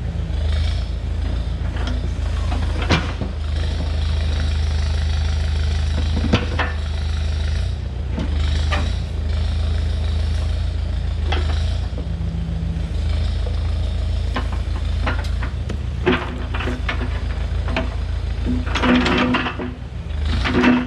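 Engine of a digging machine running steadily, with sharp knocks and metal clanks every few seconds and a cluster of them near the end.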